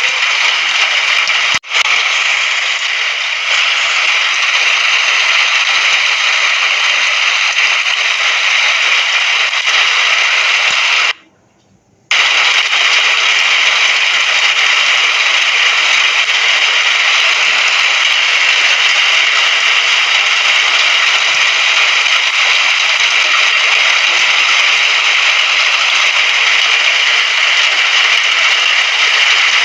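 Steady hiss of heavy rain, an even wash of patter. It drops out for about a second near the middle before resuming.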